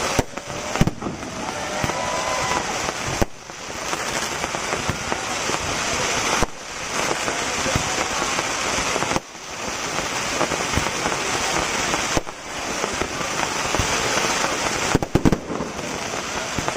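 Fireworks display: dense crackling from bursting aerial shells, coming in waves of about three seconds with short breaks between them, and a few sharp bangs near the end.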